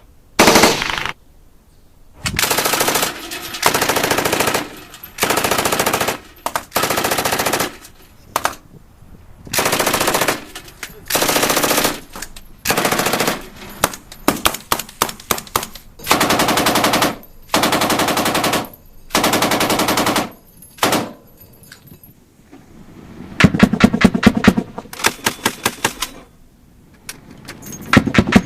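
Automatic gunfire in repeated short bursts, each about half a second to a second long, with brief pauses between. Late on, a quicker run of sharper separate shots follows, then a few scattered single shots.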